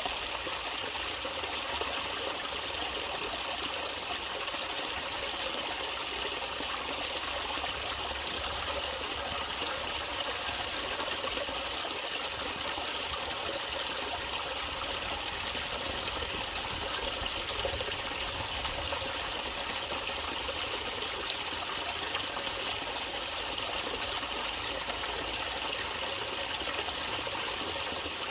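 Natural running water trickling steadily, an even rush with no breaks or splashes standing out.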